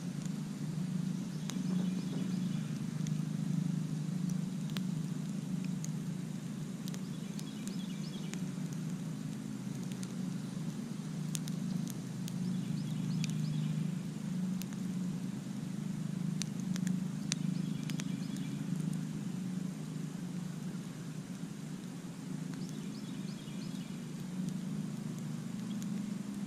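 Campfire burning with a steady low rumble, sharp crackles and pops scattered through it.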